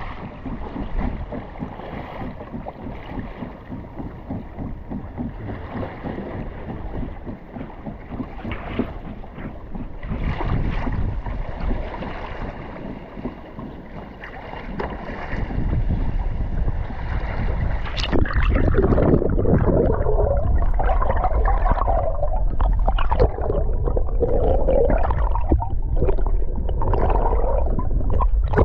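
Sea water sloshing and gurgling around a pedal kayak, with wind on the microphone. About two-thirds of the way through, the water becomes much louder and more churning and gurgling.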